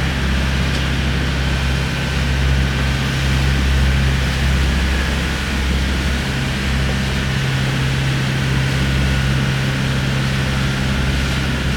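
A small boat's engine running steadily under way, a constant low drone with a deep hum under a wash of noise.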